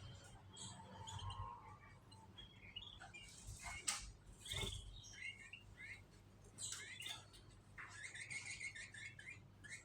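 Canaries chirping in scattered short calls and brief runs of notes, with two sharp clicks about four seconds in.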